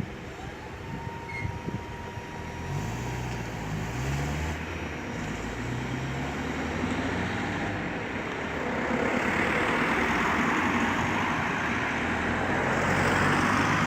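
A motor vehicle's engine approaching and growing louder, its pitch stepping up and down, with rising road noise over the last few seconds.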